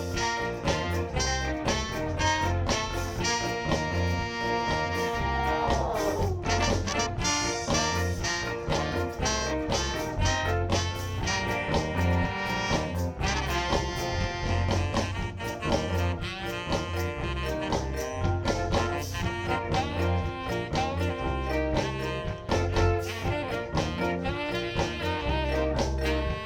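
Live band playing an instrumental break of a ska tune: horn section of saxophone, trombone and trumpet over drums, bass, guitar and keyboard with a steady beat. A horn line slides down in pitch about six seconds in.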